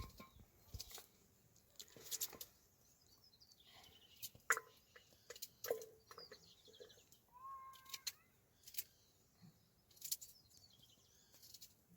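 Birds chirping now and then, with scattered sharp clicks and knocks between the calls.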